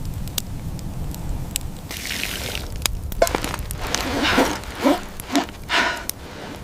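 Crunching steps in snow, about two a second in the second half, over a low steady rumble, with scattered sharp clicks and a short hiss about two seconds in.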